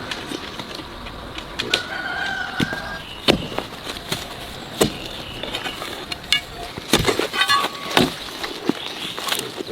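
Chickens calling: one held call about two seconds in and a quick run of clucks near the end, among scattered sharp clicks and snaps.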